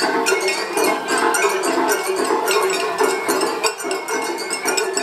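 Japanese festival float hayashi music: a percussion ensemble with rapid, continuous metallic clanging of small hand gongs over drums, several strikes a second.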